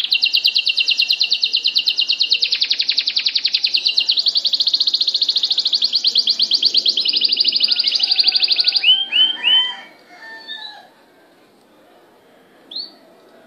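Caged songbird singing a fast, even trill of high notes, well over a dozen a second, for about nine seconds. It ends in three short slurred whistles, then a few softer notes and one last short call.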